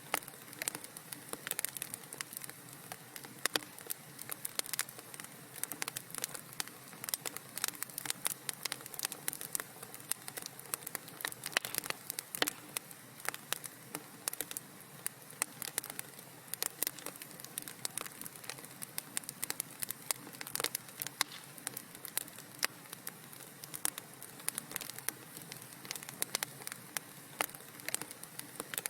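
Wood fire crackling in a fireplace: a steady soft hiss with many small irregular pops and snaps.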